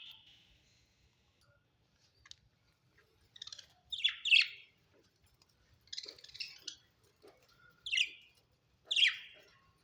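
Budgerigars chirping in short, sharp bursts with quiet gaps between, the loudest about four seconds in and near the end.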